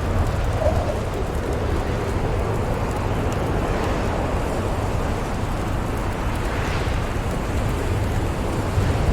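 Steady storm ambience: a deep low rumble of wind and thunder under an even, rain-like hiss, with faint scattered crackles of a wood fire.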